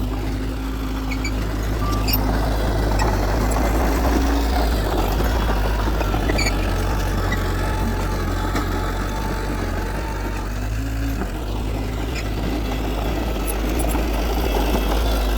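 Heavy diesel earthmoving machinery running steadily, its engine a constant low drone.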